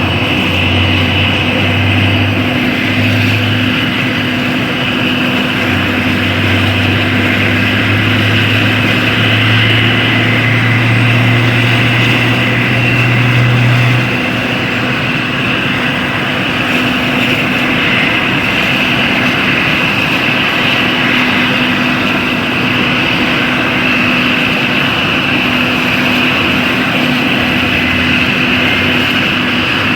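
Black Hawk military helicopters running, a steady rotor and turbine noise with a high whine. A low hum edges up in pitch and drops away about fourteen seconds in.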